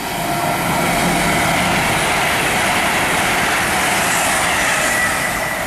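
A GWR Intercity Express Train passing through the platform at speed: the rushing noise of its wheels on the rails builds over the first second, holds steady, then starts to fade near the end.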